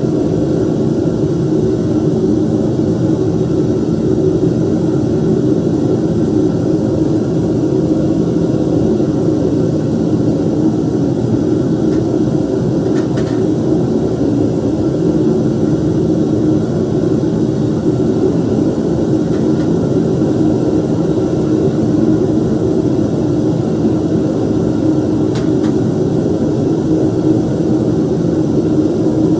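Homemade metal-melting furnace running: its burner and blower give a loud, steady rushing noise that does not change. Two faint ticks sound, one about halfway through and one near the end.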